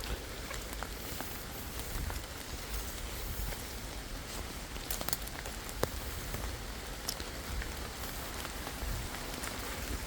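Steady rain patter with a few scattered sharper drop-like ticks.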